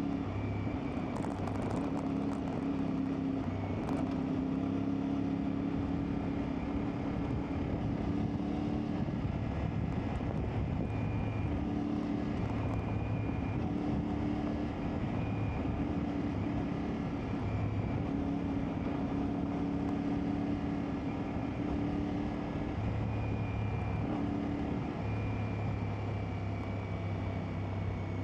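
CFMoto 450MT's parallel-twin engine running under way at fairly low, steady revs, its pitch shifting slightly up and down with the throttle, under a rush of riding noise.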